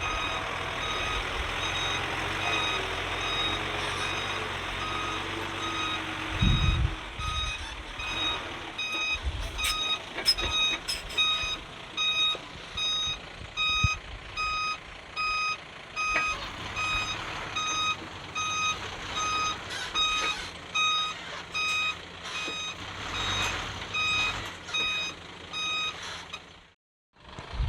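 Backup alarm of heavy earthmoving machinery beeping about once a second over a diesel engine running, with a few sharp knocks and clanks in the middle. The sound cuts off suddenly about a second before the end.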